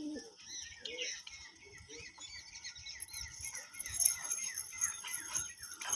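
Birds chirping: many short, high calls overlapping, growing busier and louder from about three seconds in.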